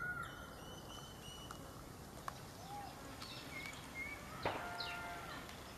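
Birds calling in the open: scattered short chirps and whistled gliding notes over a quiet background, with a louder call about four and a half seconds in.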